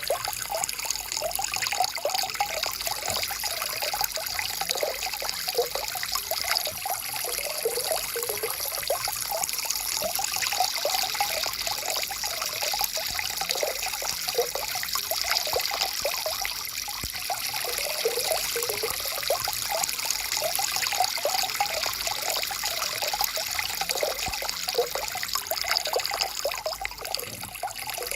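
Stream water flowing and trickling: a steady rush with constant bubbling, unchanging throughout.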